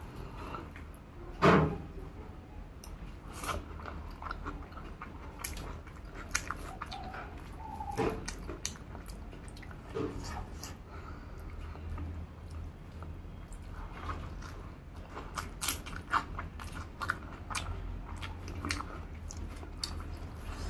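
Close-up chewing and biting of a person eating rice with curry and fried eggplant: irregular wet smacks and clicks of the mouth, with one louder thump about a second and a half in, over a steady low hum.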